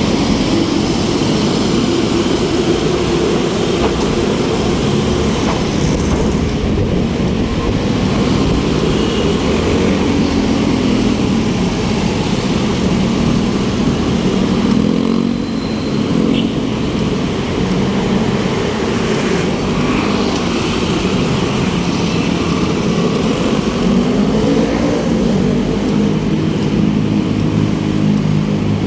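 City road traffic heard from a moving bicycle: the steady rumble of traffic noise, with several motor vehicle engines passing close by, their pitch rising and falling.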